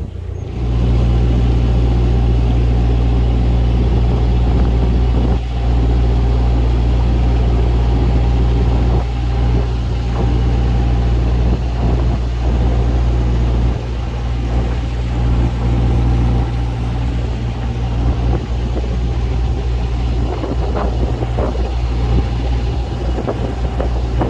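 A narrowboat's diesel engine running steadily while cruising, a constant low drone with a little rumble and wind noise over it.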